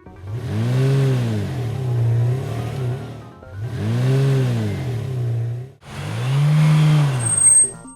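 Cartoon vehicle engine sound effect revving up and down three times, each rev rising then falling in pitch, with a brief high ping near the end.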